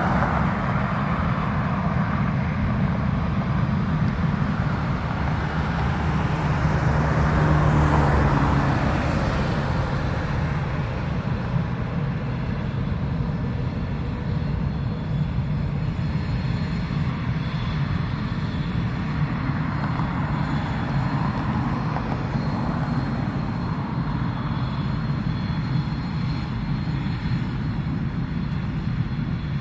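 Northrop F-5's twin General Electric J85 turbojets running as the jet taxis: a steady jet rumble with a faint high whine, swelling louder about eight seconds in.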